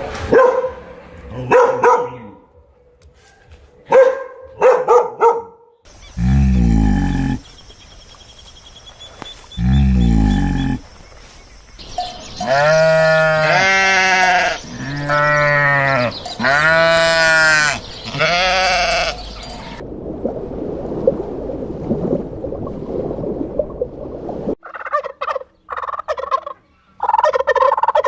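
A string of different animal calls one after another: short calls, two low deep calls, then five long bleats in a row in the middle, a stretch of rough noise, and quick short calls near the end.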